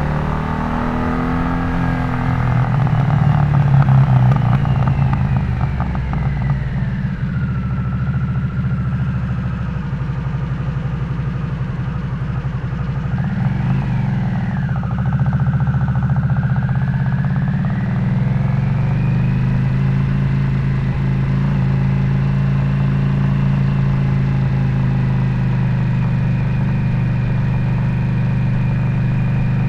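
Harley-Davidson Nightster's V-twin engine running through a Jekill & Hyde valve-controlled adjustable exhaust set to its loud mode, as the bike is ridden. The engine note rises and falls with the throttle in the first two thirds, then holds steady near the end.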